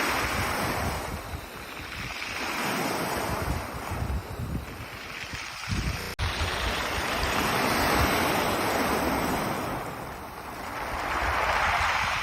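Ocean surf washing onto a pebble beach of polished stones, swelling and falling back in slow surges every few seconds, with a low rumble of wind on the microphone.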